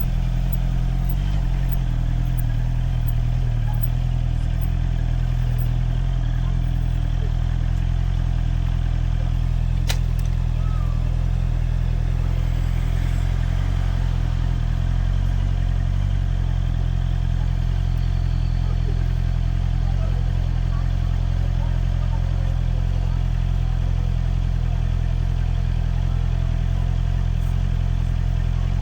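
Motorcycle engine running steadily at constant low revs, heard from the rider's helmet camera, with one sharp click about ten seconds in.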